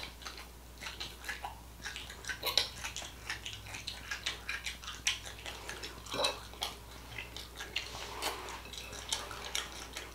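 Close-miked chewing and wet mouth sounds of someone eating chicken and rice, with many short, irregular clicks. The rice is undercooked, crunchy and hard.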